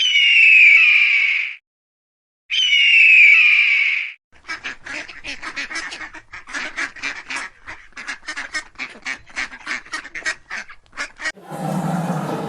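Animal calls: two loud, harsh drawn-out calls, then a long run of short, rapid calls at about three or four a second. A rough, noisy roar begins near the end.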